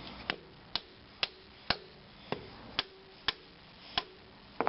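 Hammer blows on a transformer being scrapped for its copper windings, about two a second, each a sharp strike, some leaving a short metallic ring.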